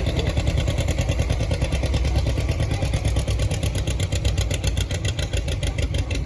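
John Deere 50 tractor's two-cylinder engine running steadily with a rapid, even beat.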